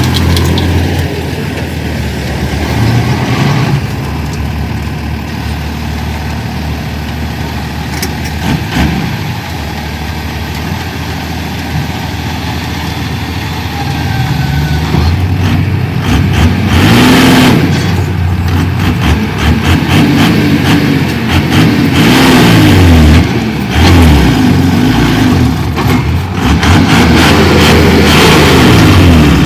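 Heavy diesel engine of earthmoving machinery running, steadier at first, then from about halfway louder, with the engine pitch rising and falling again and again as it works under load. Scattered knocks and rattles run through it.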